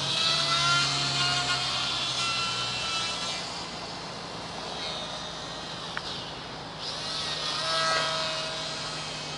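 Small electric motor and propeller of a WLToys F949 Cessna-182 RC plane buzzing in flight. The whine swells twice, near the start and again about eight seconds in, its pitch gliding slightly as the plane passes.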